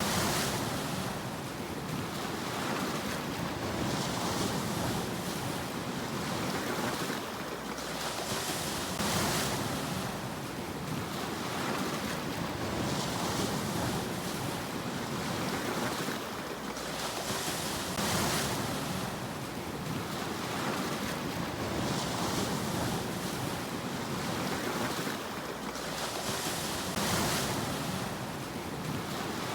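Sea waves washing onto the shore, each wave swelling into a hissing surge about every four to five seconds over a steady rush of surf.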